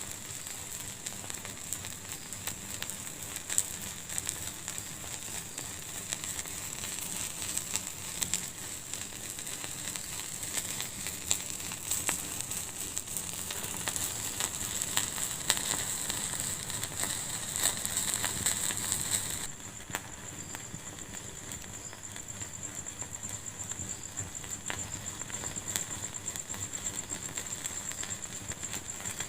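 Wood fire crackling in a fireplace: a steady hiss broken by many small sharp pops and snaps. About two-thirds of the way through, it drops suddenly to a quieter level.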